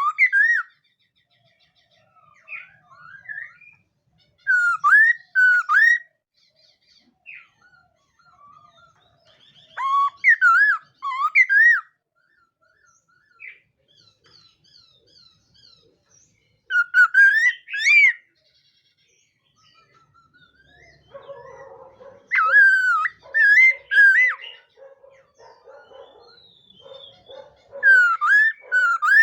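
Laughingthrush (khướu mun) singing loud whistled phrases of gliding notes, one burst about every five to six seconds with short pauses between. From about two-thirds of the way in, a lower, rapid chattering runs under the song.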